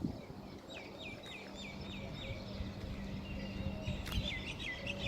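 Small bird calling: a quick run of about six repeated high notes, then a short held whistle and a burst of rapid chatter near the end. A steady low hum runs underneath.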